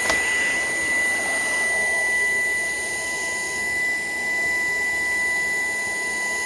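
Shark PowerDetect cordless vacuum running steadily, a constant high motor whine over the rush of suction, with a short click right at the start.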